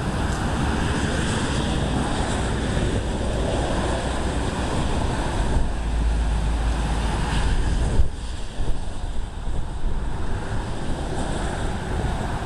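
Strong storm wind rushing and buffeting the microphone with a deep rumble. It peaks about three-quarters of the way through, then drops off suddenly and turns gusty.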